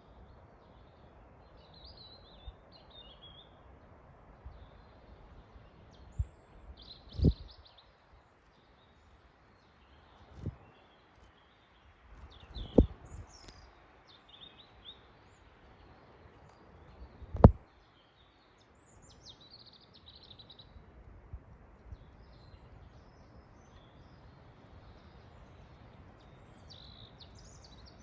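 Several songbirds chirping and twittering in a forest over a low, steady rumble of wind noise. A few brief, loud, low thumps hit the microphone, about seven seconds in, at ten and thirteen seconds, and near the middle.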